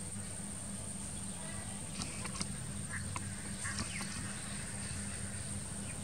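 Rural pond-side ambience: a few short bird calls between about two and four seconds in, over a steady high-pitched hiss and a low hum.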